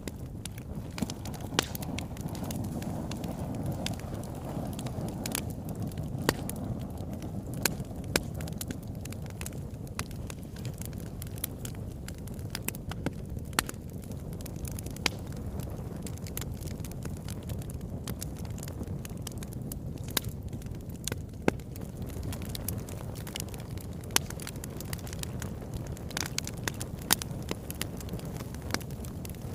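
Wood fire burning in a fireplace: a steady low rush of flames with frequent sharp crackles and pops at irregular intervals.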